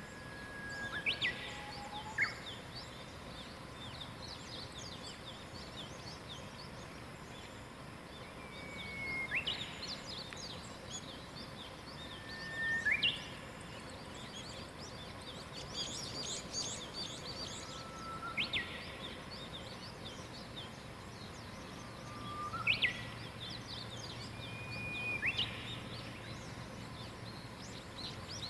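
Wild birds singing in the morning. One bird repeats a short whistled note followed by a quick sweeping note about every three to four seconds, over fainter high chirps from other birds and a steady outdoor hiss.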